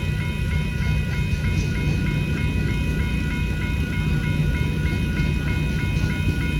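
Freight train cars rolling past a grade crossing with a steady low rumble, while the crossing-signal bell strikes about two and a half times a second.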